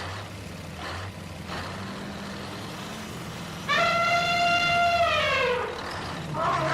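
A low, steady engine-like drone, then about four seconds in a loud horn-like tone that holds for over a second and then slides down in pitch.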